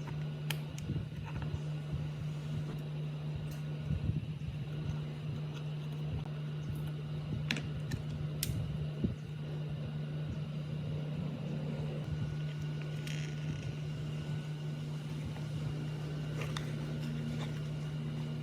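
A machine running with a steady low hum at one constant pitch, with a few sharp clicks or taps over it.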